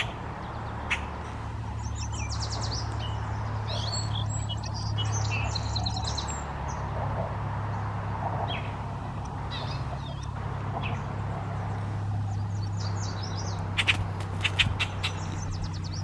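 Several songbirds chirping and calling in short, high notes throughout, over a steady low rumble. A quick run of sharp clicky notes comes near the end.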